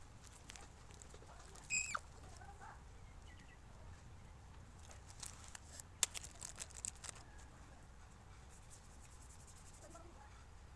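Faint clicks and light taps, most of them between about five and seven seconds in, with one short, high squeak or chirp about two seconds in.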